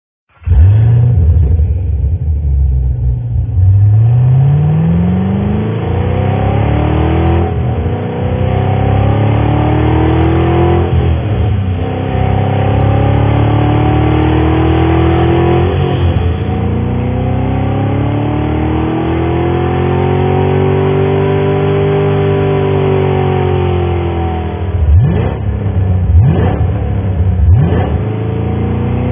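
2014 Chevrolet Camaro Z/28's 7.0-litre LS7 V8 accelerating hard through the gears, its pitch climbing and dropping back at each of three upshifts, then rising and falling in one long smooth sweep. Three quick, sharp revs follow near the end.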